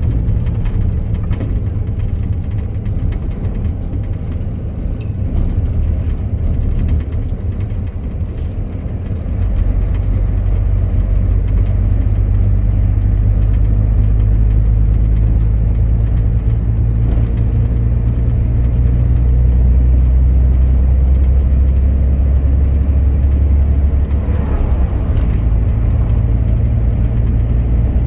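Truck engine and road noise, a steady low drone that grows louder about a third of the way in and holds there.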